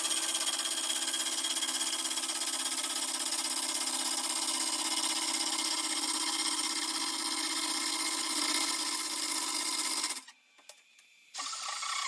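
Lathe running steadily while its cutter turns a wooden snare drum shell, with a steady hum under the cutting noise. It cuts off suddenly about ten seconds in, and a different machine sound starts about a second later.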